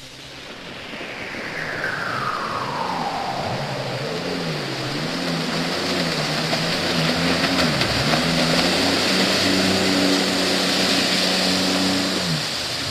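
Jet boat engine revving up and down over and over, with a steady hiss of water and wind. A whine falls in pitch over the first few seconds, and the engine note drops away just before the end.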